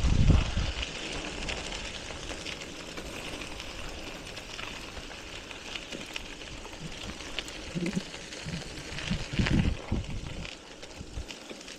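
Wind gusting on the microphone of a moving bicycle, over a steady hiss of riding noise. There is a rumbling gust at the start and two more near the end.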